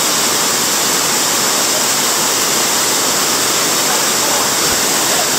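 Rushing water of a waterfall: a loud, steady roar without a break.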